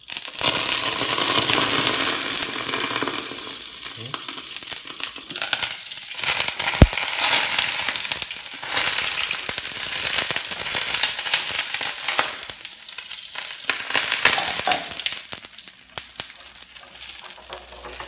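Breaded ice cream balls deep-frying in hot oil in a frying pan: a loud, dense sizzle and crackle, with one sharp knock about seven seconds in. The sizzle dies down near the end.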